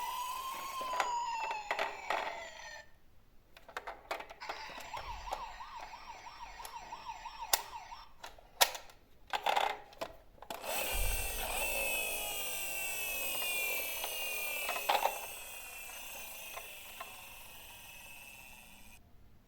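Electronic siren sounds from a toy vehicle's built-in sound unit, with rising and falling wails near the start and again from about the middle on, and a warbling tone in between. Several sharp plastic clicks come about halfway through.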